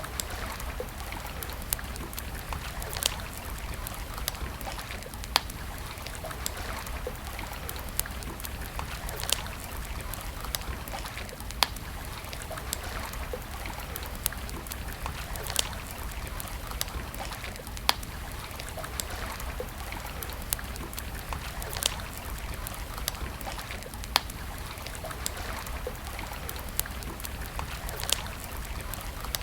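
Wood campfire crackling, with sharp single pops every two seconds or so over a steady rush of running water.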